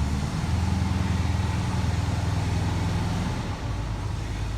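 A vehicle engine idling, with a fast even pulse; its speed shifts slightly about half a second in and again near the end.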